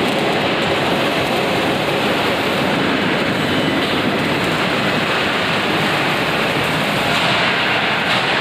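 Steady, loud machinery noise on a rail-coach body welding shop floor, an even rushing din with no separate weld pops standing out.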